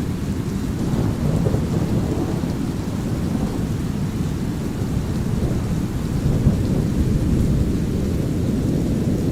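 A steady, deep brown-noise rumble with a light rain hiss over it. Thunder rolls in the background, swelling slightly about a second in and again near the end.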